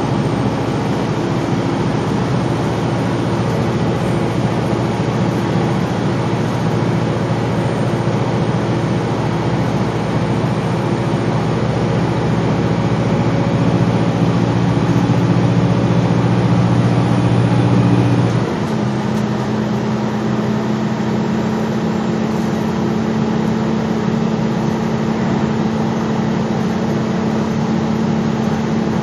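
Gillig Low Floor transit bus engine running under way, with a faint high whine above it. It builds in level, then about 18 seconds in the note drops suddenly and settles into a lower, steady hum.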